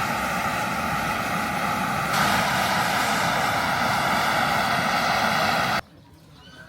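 Loud, steady machine drone with a whining tone, getting a little louder about two seconds in and cutting off abruptly near the end.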